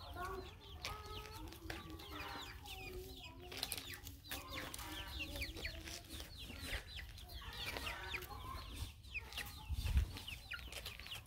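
Birds calling: lower pitched calls with several overtones in the first few seconds, then many quick high chirps. A low thump comes about ten seconds in.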